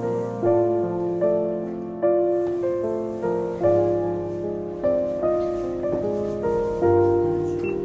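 Background music: slow, gentle piano, a new chord struck about every second and left to ring out.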